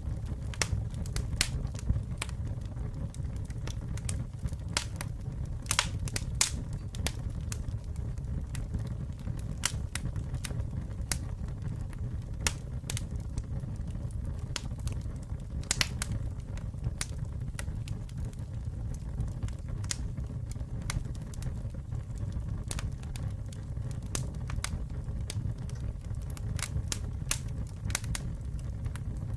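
Campfire burning, with a steady low rumble of the flames and frequent irregular crackles and pops from the burning wood.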